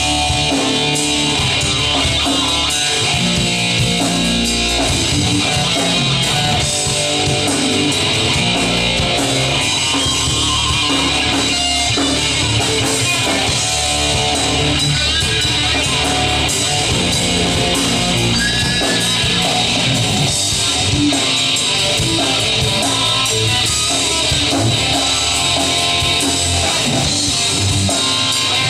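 Live rock band playing the instrumental introduction of a song: strummed guitars over bass and drum kit, loud and steady.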